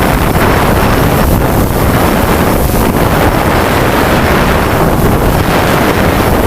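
Strong wind buffeting the microphone: a loud, steady rumble of noise without any clear tone.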